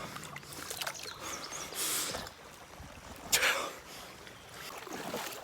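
Water splashing as a smallmouth bass is let go into the creek: a short swish about two seconds in, then a sharper splash about three seconds in.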